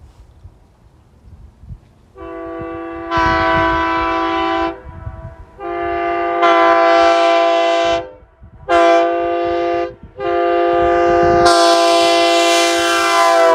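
Bronze tab-back Nathan S3K air horn blown as a multi-note chord in four blasts: long, long, short, then a longer one, played in the grade-crossing pattern. The first blast starts softly and swells, and wind rumbles on the microphone in the gaps.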